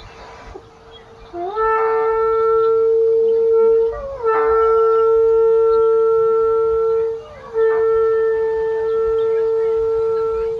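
A wind instrument sounding three long held notes, all at the same pitch, with short breaks between them; the first note slides up into pitch.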